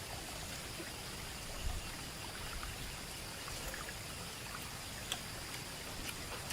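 Water trickling steadily, with a few light knocks and clicks over it.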